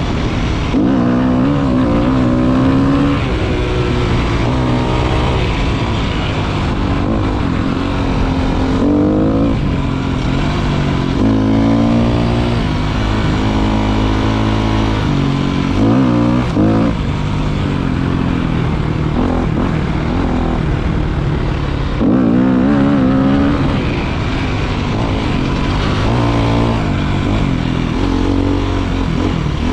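Motorcycle engine running under way, its pitch rising and falling again and again as the rider opens and closes the throttle and shifts gears.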